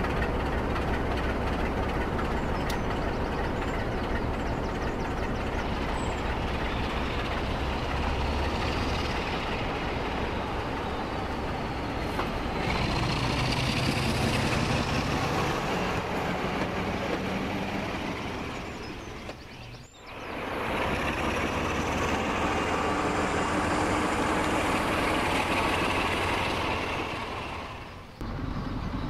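Class 47 diesel locomotive engine sound running steadily under power, accompanying a Bachmann OO-scale model as it moves along the track. The sound changes and grows brighter about twelve seconds in, a rising whistle comes in twice, and it briefly cuts out a little past the middle and again near the end.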